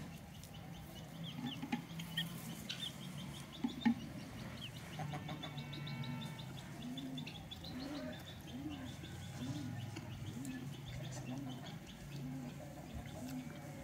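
Birds calling outdoors: a low call that rises and falls repeats about one and a half times a second from midway on, with small birds chirping higher up.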